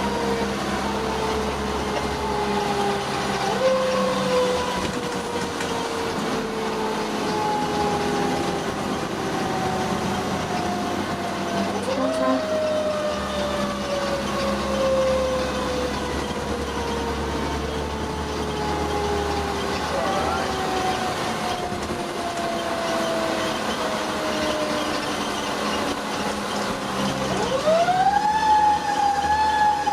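Fire engine's mechanical siren coasting down slowly in pitch and being wound back up about three times, with the strongest wind-up near the end. The truck's engine drones underneath.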